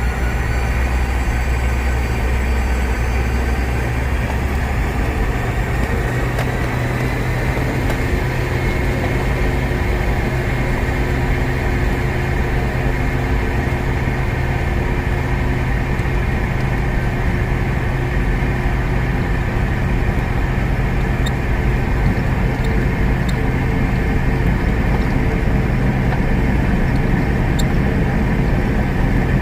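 Boeing 717-200's rear-mounted Rolls-Royce BR715 jet engines running, heard as steady, loud cabin noise with a deep hum. A faint whine rises in pitch over the first several seconds.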